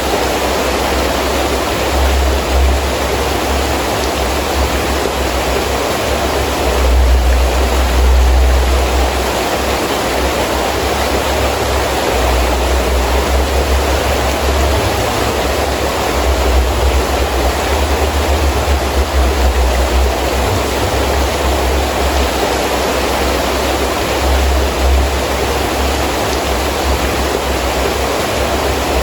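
Heavy rain falling steadily, with a low buffeting rumble of gusting wind that swells about seven seconds in and eases again a couple of seconds later.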